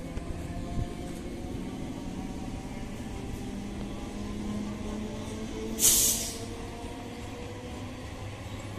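EMU local train running past and pulling away, its traction motors whining in several slowly rising tones over the rumble of wheels on rail. About six seconds in there is a short, loud hiss of air.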